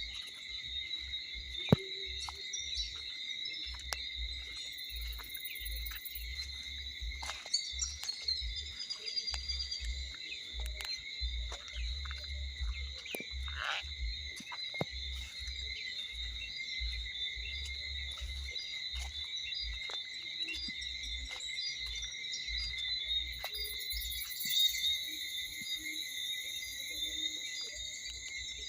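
A steady evening chorus of insects chirring, a continuous high-pitched buzz.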